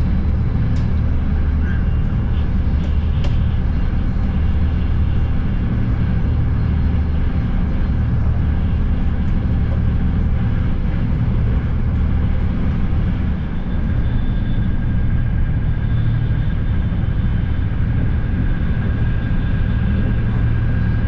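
Steady low rumble of a Frecciarossa ETR 500 high-speed train running, heard from inside the passenger coach, with a few faint clicks in the first few seconds.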